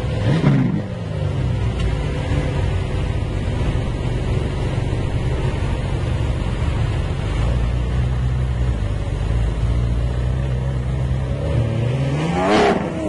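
Lamborghini Aventador's 6.5-litre V12 running at low revs, with a rev blip that falls away just after the start and another quick rev rising and falling near the end.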